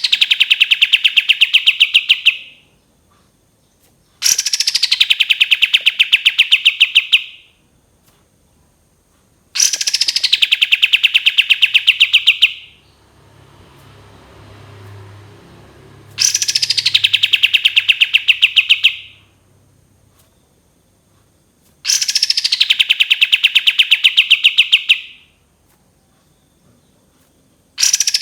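Kapas tembak bulbul singing its 'long shot' phrase over and over, about every six seconds. Each phrase opens with a high note sliding down, then runs into about three seconds of rapid, evenly spaced clipped notes, several a second, like a string of shots. A faint low hum sits in one gap between phrases, near the middle.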